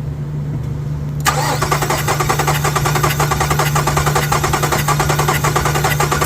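Starter cranking the 2016 Nissan Quest's engine with a spark plug out and a compression gauge fitted, a fast, even churning that begins about a second in, over a steady background hum. It is a compression test on a suspected misfiring cylinder, and the gauge reads about 160 psi.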